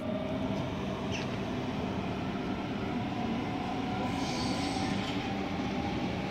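NS double-deck electric passenger train running along the platform, a steady rumble of wheels on rails with a faint humming tone. Brief high wheel squeals come about a second in and again around four seconds.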